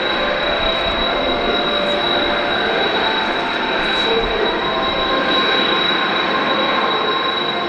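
Jet aircraft engine noise, a steady dense rush with a thin high whine held over it.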